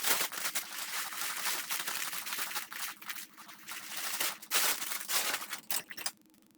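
Spatula scraping and stirring in a mixing bowl, an uneven run of rough strokes that starts abruptly and stops suddenly about six seconds in.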